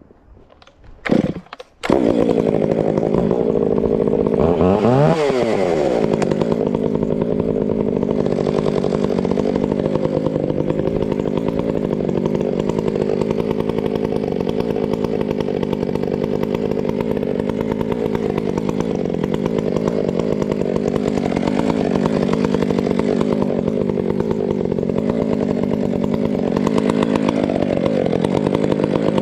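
Gas chainsaw starting up about two seconds in, its pitch dropping and rising once around five seconds, then running steadily with small changes in speed.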